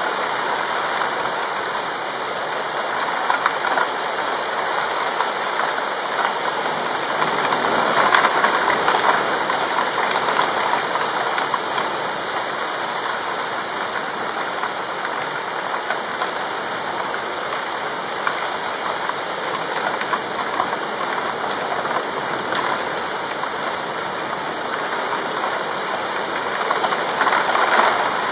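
Rain falling steadily in a thunderstorm as a dense, even hiss. It swells a little about eight seconds in and again near the end.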